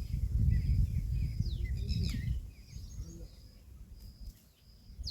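Birds chirping outdoors: a few quick chirps falling in pitch, over low wind rumble on the microphone that drops away about halfway through.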